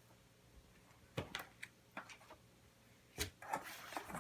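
Box and packaging being handled during an unboxing: a handful of short, light knocks and clicks with some rubbing, the sharpest about three seconds in.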